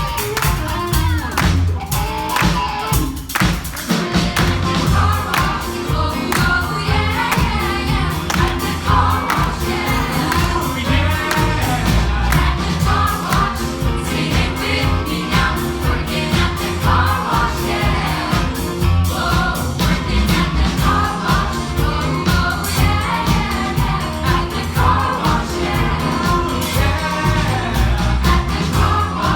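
A vocal group singing together over backing music with a steady beat and strong bass.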